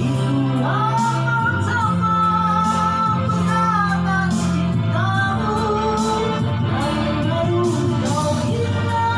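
Male vocalist holding long high notes with vibrato over a slow band accompaniment with steady low chords: a sustained belted note for several seconds, then a new phrase held again about five seconds in.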